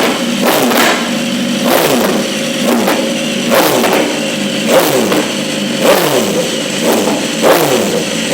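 Motorcycle engine revved over and over, its pitch climbing and dropping about once a second.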